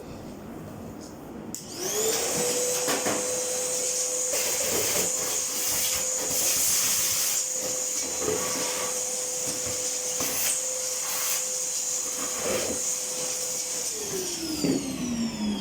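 A high-speed electric motor, of the kind that drives a vacuum cleaner or blower, is switched on and quickly winds up to a steady high whine with an airy hiss and a few light clicks. Near the end it is switched off and its pitch falls as it spins down.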